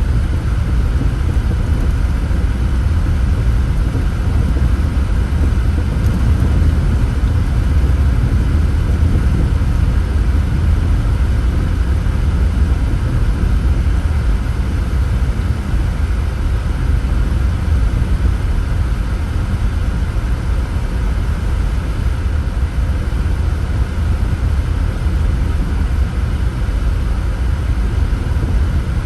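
A car driving at a steady pace: a steady low rumble of road and engine noise that holds even throughout.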